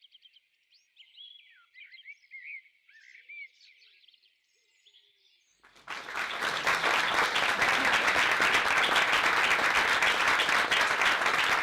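Small birds singing in short, chirping phrases; about six seconds in, a loud, dense crackling noise cuts in and takes over.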